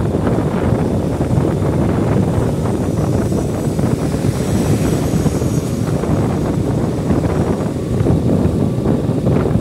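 Steady wind rushing over the microphone of a moving motorbike, mixed with the bike's running noise.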